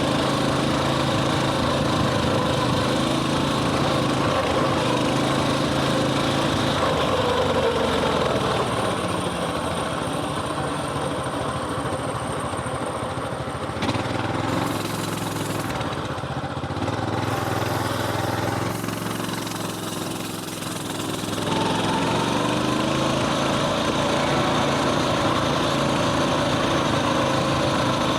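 Coleman mini bike's small single-cylinder four-stroke engine running as it is ridden, its pitch rising and falling with the throttle; it eases off and drops in level shortly before two-thirds of the way through, then revs back up.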